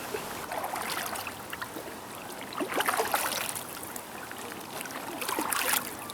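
Paddle strokes in river water: a splash about every two and a half seconds, with water trickling and dripping in between.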